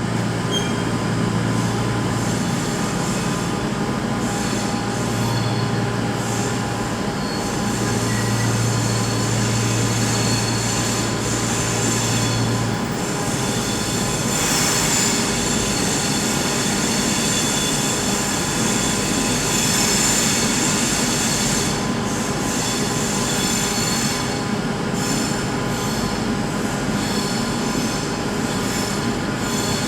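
Train wheels squealing on the rails, a continuous high-pitched squeal of several steady tones at once. A low steady hum underneath stops about halfway through.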